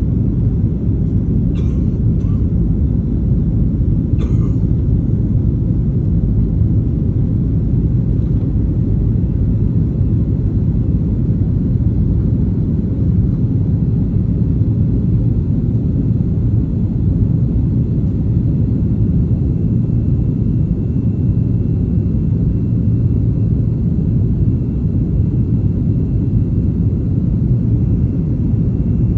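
Steady low rumble of a jet airliner's engines and airflow heard from inside the passenger cabin, unchanging in level, with a few faint clicks in the first few seconds.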